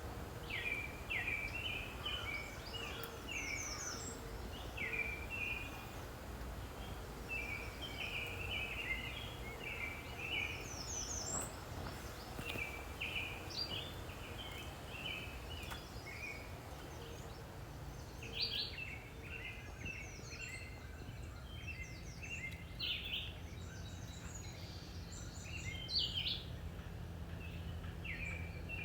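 Several songbirds chirping and calling in short, repeated notes throughout, over a low steady rumble.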